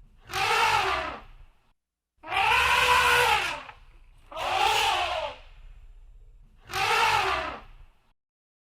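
Elephant trumpeting: four loud, harsh blasts of about a second each, about two seconds apart, each rising and then falling in pitch.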